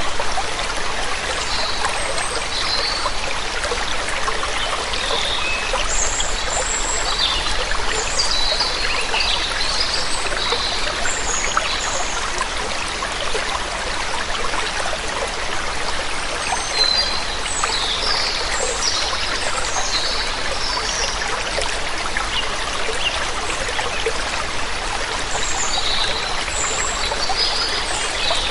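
Steady rush of water falling down a waterfall, with birds chirping high and brief in several scattered clusters over it.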